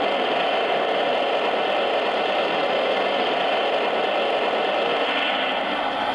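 Steam boiler blowdown sound effect played through the onboard speaker of a Lionel Legacy O-scale AT&SF 4-8-4 Northern model locomotive: a steady, loud hiss of escaping steam that eases off near the end.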